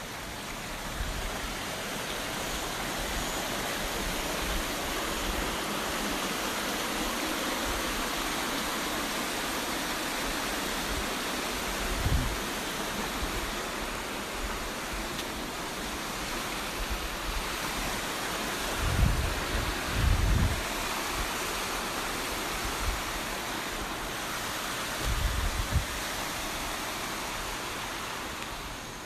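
Steady rushing of falling water from a waterfall, with a few short low thumps on the microphone.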